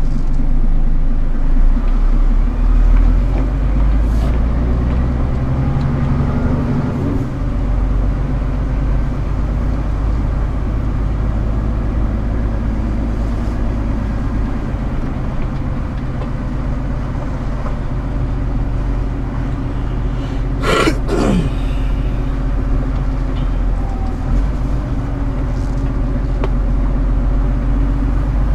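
Scania R410 truck's 13-litre six-cylinder diesel running steadily, with a change in engine note about seven seconds in. About three-quarters of the way through there is a brief falling whine.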